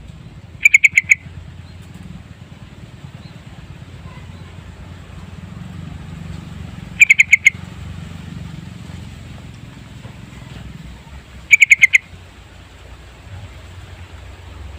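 Sooty-headed bulbul singing three short loud phrases, each a quick run of about four notes, several seconds apart, over a steady low hum.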